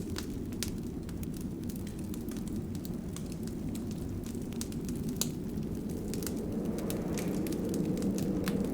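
Wood fire burning in a fireplace: irregular sharp crackles and pops over a steady low rush of flames, which grows a little louder near the end.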